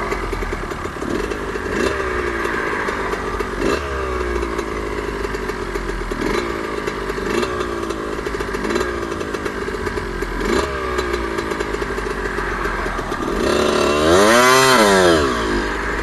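Suzuki RM125's 125 cc two-stroke engine being blipped about once a second, its pitch jumping up and sagging back each time. Near the end the throttle is opened harder for one bigger rev that rises and falls.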